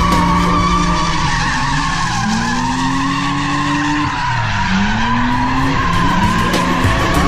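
Car tires squealing steadily through a spin, with the engine revving up twice in the middle, over background music.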